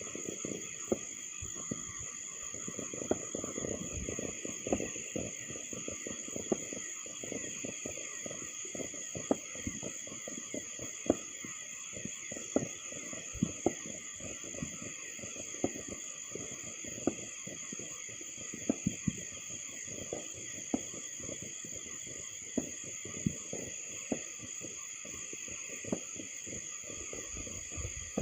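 Distant New Year's fireworks popping and banging at irregular intervals, some bangs standing out louder, over a steady chorus of crickets.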